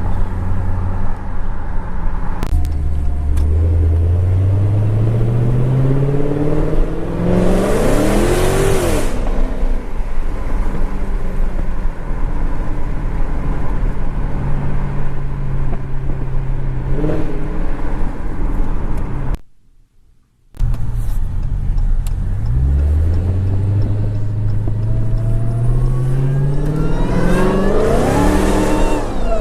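Supercharged 6.2-litre Hemi V8 of a Dodge Challenger Hellcat, fitted with a Bwoody cold air intake, accelerating hard twice with the supercharger whine rising with the revs and a steady cruise in between. The sound cuts out for about a second near the middle.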